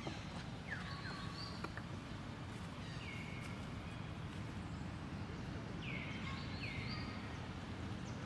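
An animal's short high-pitched calls, each sliding down in pitch and then holding briefly, a few of them in quick pairs, over a steady low background rumble.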